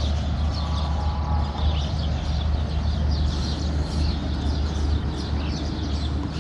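Many small birds chirping in quick short calls over a steady low rumble.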